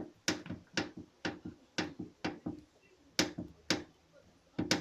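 Nissan Primera P12 hood bracket knocking: a run of sharp knocks, about two a second with a short pause in the middle, each with a brief rattle after it. This is the knock the hood gives over small bumps when driving, coming from the hood bracket.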